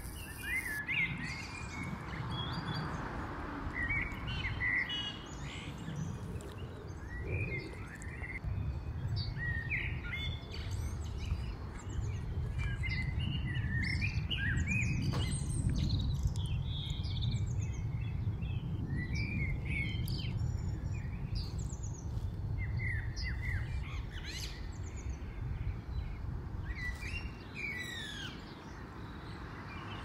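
Songbirds singing and chirping, many short, varied calls one after another, over a steady low rumble.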